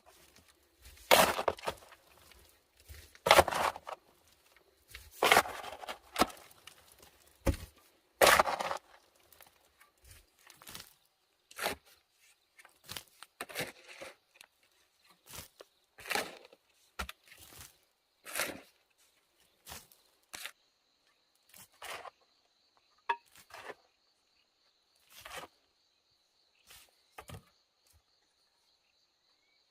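A series of sharp cracks and crunches, about one every second or two, loudest in the first nine seconds and lighter after. A faint steady high-pitched tone runs underneath from about nine seconds in.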